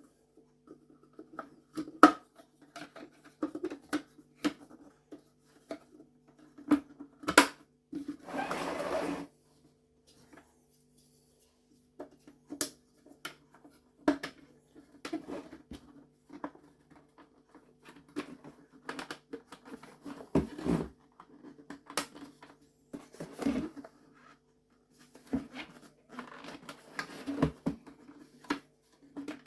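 Plastic parts of a Vax 6131t Multivax vacuum cleaner being handled and fitted back together: irregular clicks and knocks, with a brief scraping rasp about eight seconds in, over a faint steady hum.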